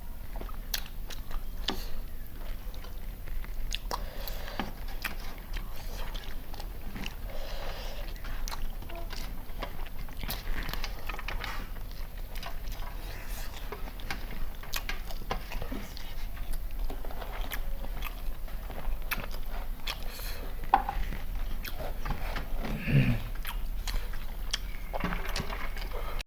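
Chicken biryani being eaten: chewing and biting with many small clicks and smacks scattered throughout, and a short vocal sound a little before the end.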